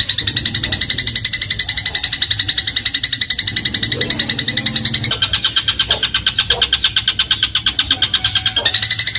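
Eurasian tree sparrow giving a long, rapid chattering trill of about a dozen notes a second, the 'crot' call, changing pitch about five seconds in and changing back near the end.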